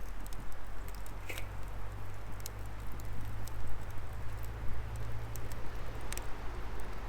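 Firewood burning in an open fire pit, crackling steadily, with sharp pops about a second in, a couple of seconds later and near the end, over a low steady rumble.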